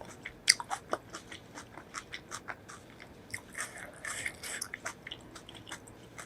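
Close-miked eating: a person biting and chewing crunchy food, with a run of sharp crunches and wet crackles. The loudest crunch comes about half a second in.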